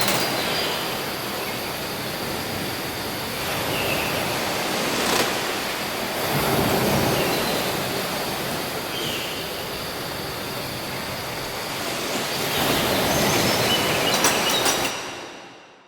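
Steady rushing noise with a few faint short chirps scattered through it, fading out near the end.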